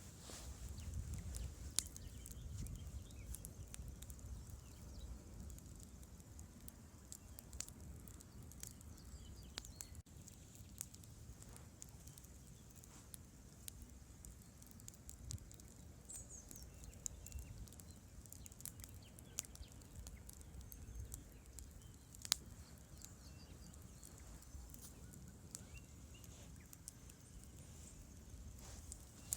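Campfire crackling, with irregular sharp pops of burning wood, the loudest about 22 seconds in, over a low steady background of the river.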